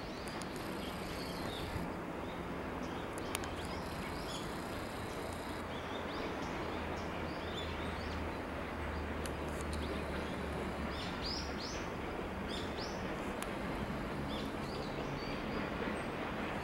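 Garden ambience: a steady even hiss with small birds chirping now and then in short high calls, most of them in the second half.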